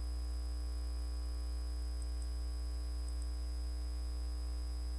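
Steady electrical mains hum, unchanging throughout.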